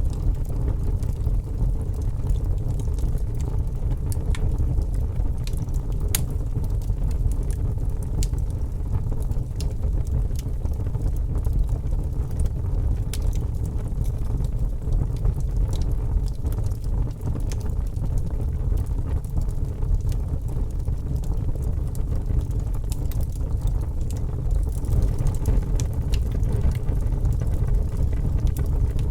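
Fire burning, with a steady low rumble under frequent, irregular sharp crackles and pops.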